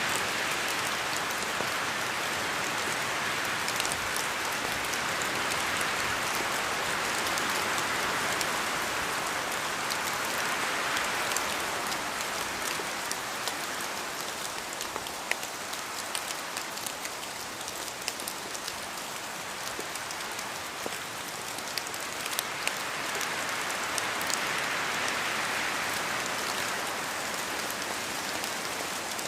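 Steady rain falling in a forest, with many separate drops ticking close by. The rushing rises and eases in slow waves, like gusts of wind through the trees: stronger in the first third and again near the end, quieter in between.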